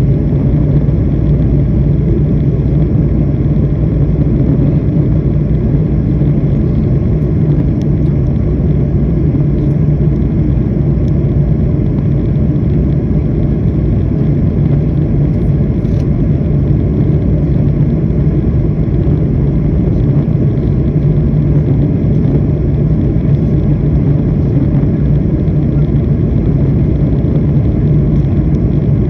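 Airliner jet engines and airflow making a loud, steady low rumble with no rise or fall in pitch.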